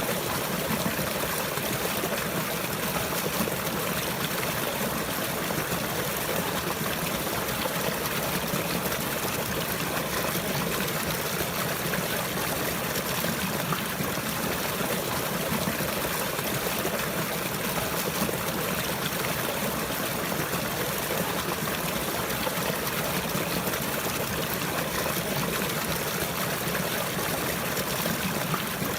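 Water flowing and trickling steadily, like a small stream, without a break or change.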